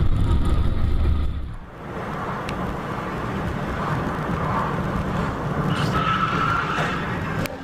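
Car engine and road noise of a moving vehicle, with an abrupt change about a second and a half in.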